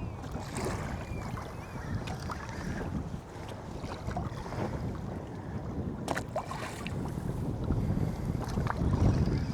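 Wind buffeting the microphone over water slapping against a small boat's hull in a light chop, with a sharp click about six seconds in.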